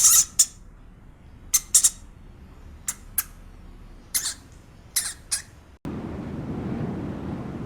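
A small animal giving short, high-pitched squeaks in quick pairs and threes. About six seconds in, they cut off abruptly and give way to a steady low rumbling noise.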